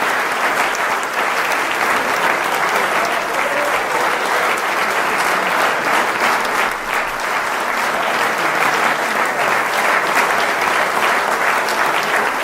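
Concert audience applauding steadily after a piece ends, a dense, even clapping.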